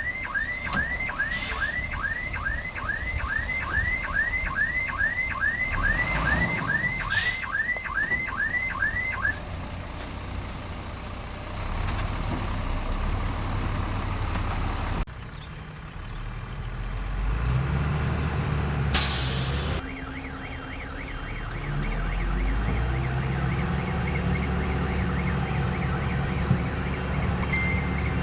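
Diesel engines of heavy earthmoving machinery running, with a chirping back-up alarm repeating about twice a second until about nine seconds in. Later an engine speeds up and a short hiss of air comes near the middle.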